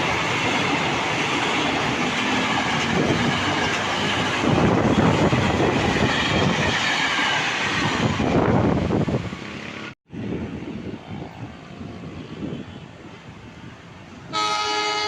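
Electric commuter train passing close by, a loud rumble with wheel clatter over the rails that fades about nine seconds in. Near the end a horn sounds briefly.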